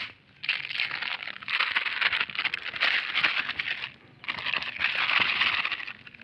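Plastic litter crinkling and crackling as it is gathered up by hand, in two long stretches with a brief pause between.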